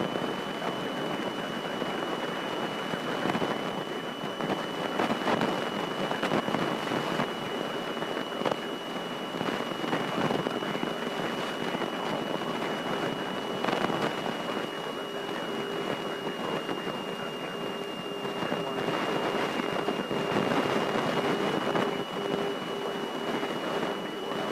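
Light airplane cabin noise heard through the intercom recording: steady engine and airflow hiss that swells and eases a little, with a thin high electronic whine throughout. About two-thirds of the way in, a repeating pulsed tone joins it.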